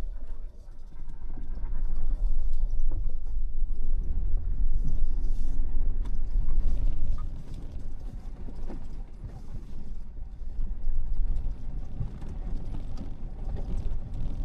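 Tank 500 SUV driving slowly down a rough dirt track: a steady low rumble with irregular knocks, clicks and creaks from the suspension and body jolting over bumps and stones, loudest in the first half.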